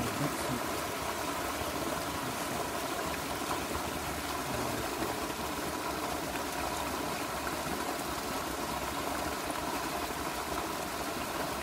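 Steady rush of water flowing at a small river dam, with water being let out through the dam's gate.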